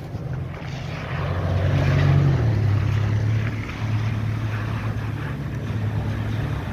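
Engine running with a steady low drone, its pitch dropping slightly a little after two seconds in.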